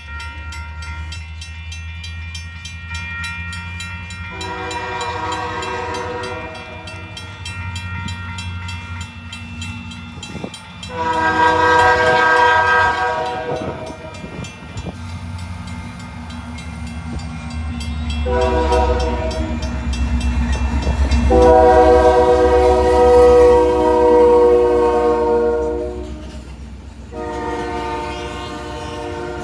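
A diesel locomotive's chorded air horn sounds five blasts, most of them long, over the engine's steady low rumble. The rumble swells as the train draws close in the second half.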